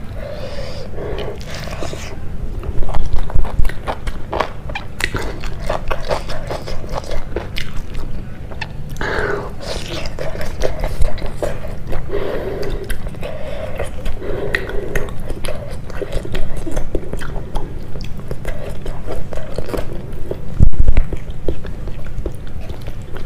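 Close-miked chewing and wet mouth sounds of a person eating rice and pork curry by hand: irregular smacks and clicks, with a couple of louder bumps about three seconds in and near the end.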